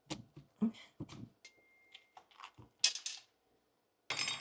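Kitchen knife working through a raw pumpkin on a cutting board: a string of short, irregular knocks and clicks, with louder scrapes about three seconds in and near the end, as the tough flesh resists the blade.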